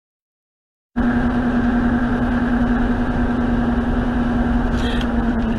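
Silence for about a second, then the sudden start of steady road noise from a car in motion, heard from inside as a dash cam picks it up, with a constant low drone over the noise.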